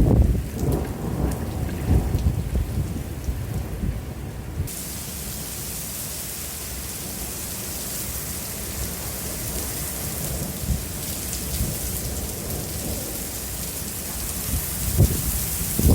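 Thunder rumbling from a nearby lightning strike, with heavy rain hissing; about five seconds in the rain noise gets suddenly louder and stays steady, and more low rumbles come near the end.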